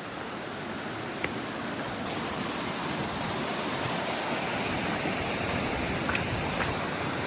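Rushing water of a fell stream, a steady hiss that grows gradually louder as it draws nearer, with a few faint ticks.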